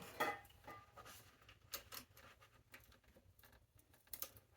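A few scattered faint clicks and light taps from tools and bicycle parts being handled while a part is being loosened, the sharpest ones just after the start and near the end.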